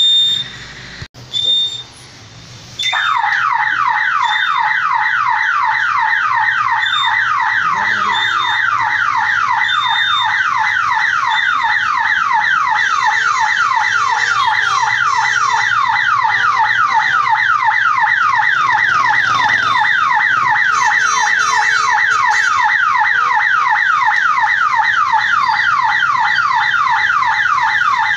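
Railway level-crossing warning siren: a loud electronic tone that sweeps downward over and over, about three times a second, starting about three seconds in and holding steady. It warns road users that the gate is being lowered for an approaching train. Under it, a short high beep from the gate buzzer repeats about once a second, and the buzzer beeps alone before the siren starts.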